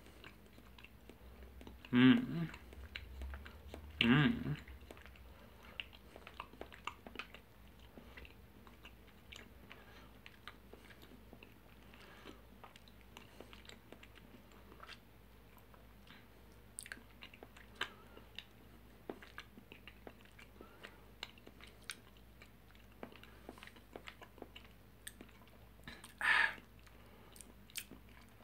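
Close-up chewing of a soft, sticky fruit-gummy energy chew: faint wet clicks and smacks of the mouth working the chew. Three brief vocal sounds from the eater come about two seconds in, about four seconds in, and near the end.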